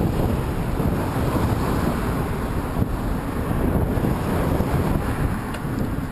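Headwind buffeting the camera's microphone: a steady low rumble of wind noise.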